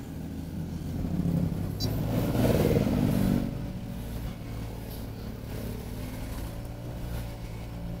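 Motorcycle engine running, heard from the rider's position, with a louder stretch of acceleration for about two seconds starting about a second in, then settling to a steady drone.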